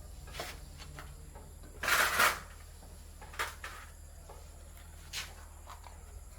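A few short clatters or scrapes, the loudest a half-second rattle about two seconds in, over a steady low hum.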